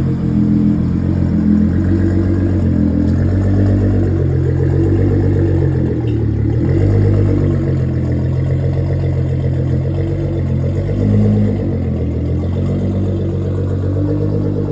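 Nissan GT-R R35's twin-turbo V6 engine running loudly, its pitch holding and then rising and falling as the revs change.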